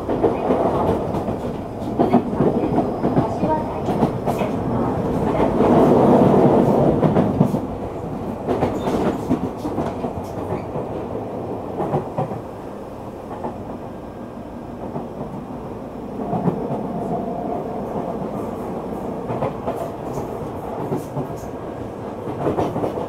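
Running noise of a Tokyu 3000-series electric train heard from inside the carriage: a steady rumble of wheels on rail with irregular clicks over rail joints. It swells loudest about six seconds in, then settles back.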